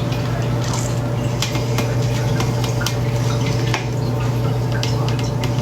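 Light, scattered clicks and taps of kitchen utensils and dishes over a steady low hum.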